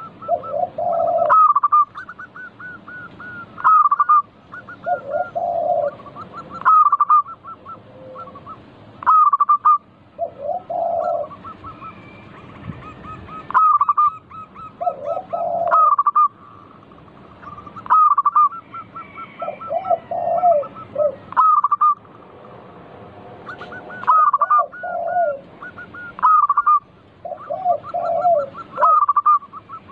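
Zebra doves (perkutut) cooing: repeated staccato phrases of rapid high notes followed by lower, rounder coos, one phrase every two to three seconds.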